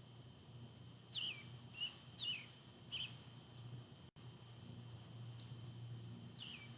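A songbird calling faintly in the background: short, quick, falling chirps, four in about two seconds, then another run near the end, over a faint steady hum.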